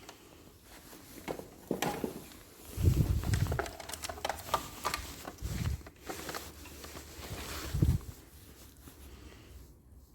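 Irregular handling noise from working on parts: scattered clicks, taps and knocks, with three heavier low thumps about three, five and a half and eight seconds in.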